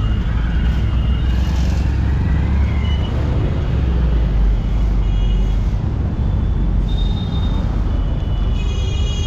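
Busy street traffic: a steady low rumble of engines, broken by several short horn honks, the fullest one near the end.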